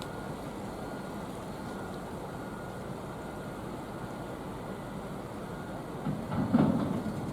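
Steady outdoor background noise, an even rumble and hiss like distant road traffic, with a brief louder sound about six seconds in.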